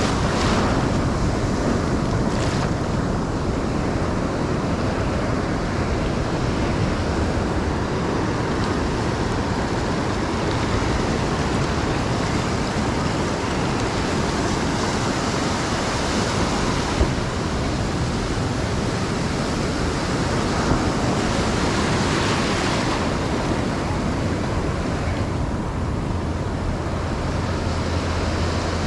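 Ocean surf breaking and washing up a sandy beach: a steady rush of water noise, with a few louder breaks swelling up now and then.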